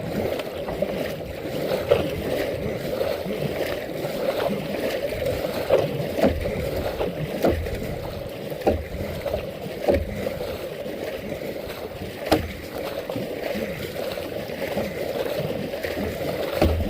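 Kayak being paddled: a steady wash of water with short sharp knocks every second or so.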